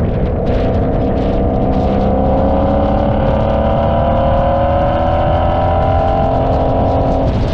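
Car engine pulling steadily higher in revs under acceleration for several seconds, then its pitch drops suddenly near the end, as at a gear change. A constant heavy low rumble of road noise runs underneath.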